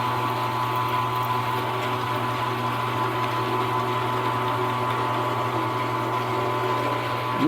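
Small milling machine's spindle motor running at a steady speed while drilling a hole, with an even hum and a constant whine.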